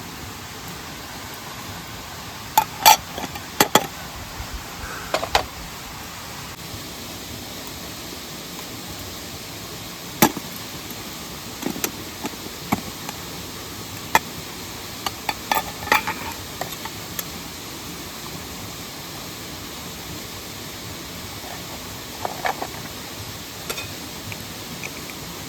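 Camp gear and wood being handled by hand: scattered sharp knocks and clicks, some in quick little clusters, over a steady rushing hiss.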